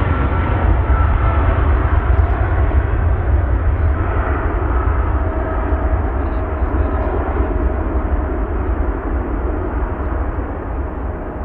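Jet airliner's engines, a steady noise with faint high tones, slowly dying away over the last few seconds as the aircraft moves off.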